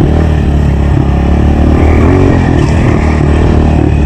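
Honda CRF 125 dirt bike's single-cylinder four-stroke engine running under throttle while riding, with a brief rise and fall in revs a little after two seconds in.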